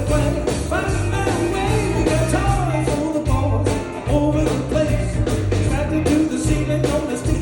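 Band playing an upbeat boogie-woogie country song with a singer, over a steady driving bass and drum beat.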